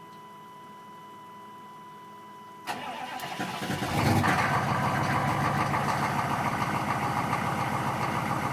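Cold start of a Chevy 6.5 L turbo-diesel V8: a steady high tone stops as the starter engages about two and a half seconds in. The engine cranks for about a second and a half, catches, and settles into a steady high idle because it is cold.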